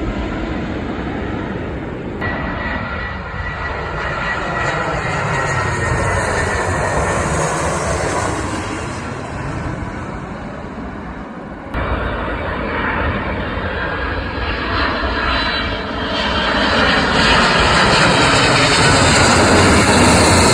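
Airplane engines running loud and continuous as an aircraft passes close by, with a whooshing that sweeps in pitch and grows loudest near the end.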